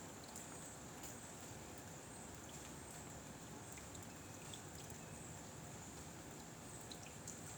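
Faint, steady outdoor background noise with a constant high-pitched whine over it and a few light ticks scattered through it.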